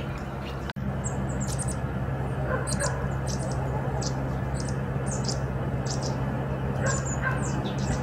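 Small birds giving short, high chirps, about ten scattered through, over a steady low background hum.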